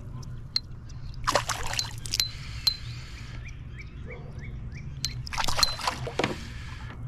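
A hooked chain pickerel thrashing and splashing at the surface beside a kayak, in two bursts of splashing about four seconds apart.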